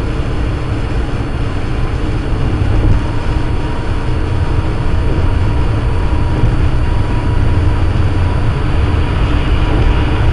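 Steady low rumble of a moving vehicle, engine and road noise with no sudden events, slowly growing a little louder.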